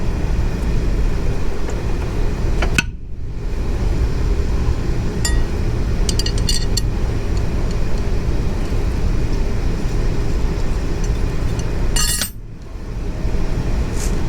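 Steady low rumbling background noise with a few light metallic clinks of wrenches and sockets against metal about five to seven seconds in. The rumble cuts out briefly twice.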